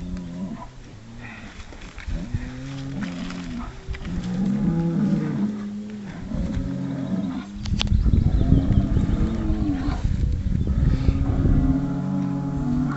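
Highland bulls calling over and over with Wookiee-like moans: a string of pitched calls, each about a second long, rising and falling in pitch. The loudest call, about two thirds of the way through, is rougher.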